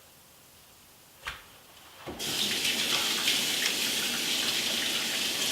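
A short knock, then a kitchen tap turned on about two seconds in, water running steadily into the sink.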